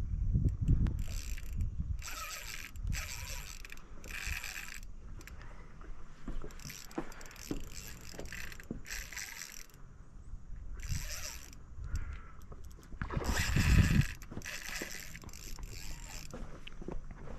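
Fishing reel being cranked in short spells, a mechanical gear whir that starts and stops a dozen or so times, with low handling thumps in between.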